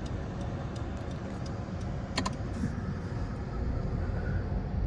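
Steady low rumble with scattered light clicks, and a sharper double click about two seconds in.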